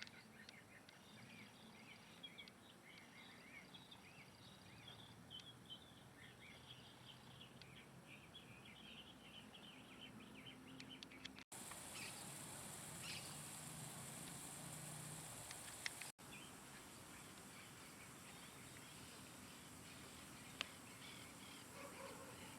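Small birds chirping faintly, many short overlapping calls in a quick twittering chorus. After a cut about halfway through, a steady high hiss comes in for a few seconds, with fewer calls, before the faint chirping resumes.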